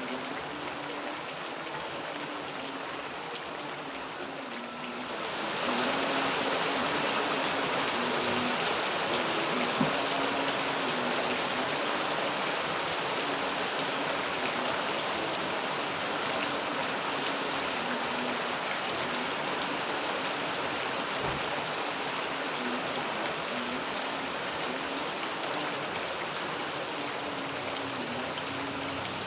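Steady rainfall, turning heavier about five seconds in and then falling evenly.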